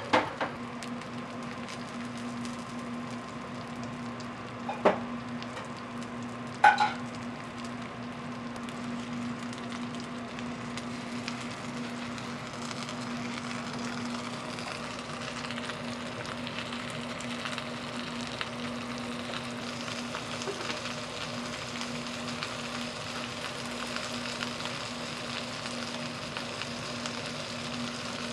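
Jeon (Korean savoury pancakes) frying in oil, sizzling steadily, with a steady low hum underneath. Sharp metal clacks of cooking utensils come right at the start and again around five and seven seconds in.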